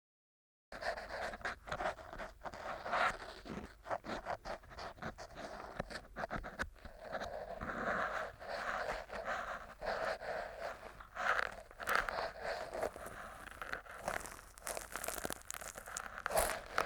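Black triple-disc earpick scraping and grinding inside an ear: a dense run of crackly scrapes and sharp clicks that starts suddenly out of silence about a second in.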